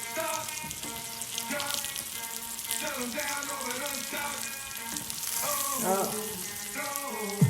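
Hennessy cognac sizzling in a pan on the stove as it reduces and its alcohol cooks off, with music playing over it.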